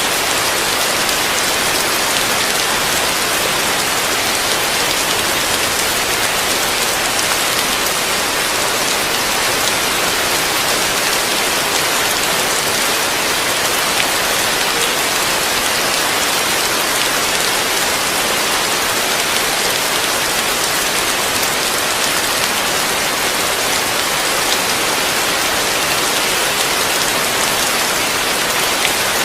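Heavy rain falling steadily on a roof: a dense, even hiss of countless drops with fine pattering, unchanging throughout.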